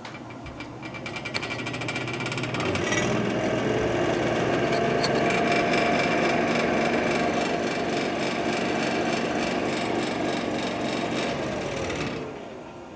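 A 1970s Leigh bathroom exhaust fan motor spins up over a couple of seconds and runs with a rapid, steady rattling vibration. About twelve seconds in it is switched off and winds down.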